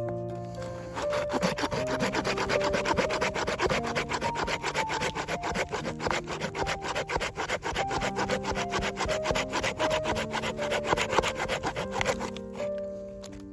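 Wood being sawn by hand: rapid, even back-and-forth scraping strokes, several a second, starting about a second in and stopping about a second before the end, over background music.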